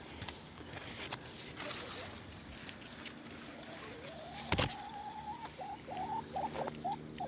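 Garden ambience: insects trilling steadily, with one sharp click about halfway through. In the second half an animal call rises and holds, then breaks into a string of short high calls.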